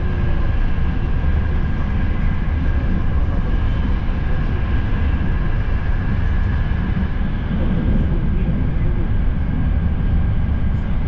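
Cabin noise of a Frecciarossa ETR 500 high-speed train in motion: a steady low rumble of the running train with a thin, steady high tone above it.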